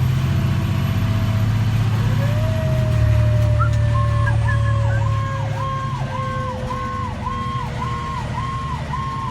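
Fire engine responding with sirens: its engine runs loudly for about the first half. About two seconds in, a Federal Q mechanical siren sounds and slowly winds down in pitch, and from about four seconds an electronic siren warbles about twice a second over it.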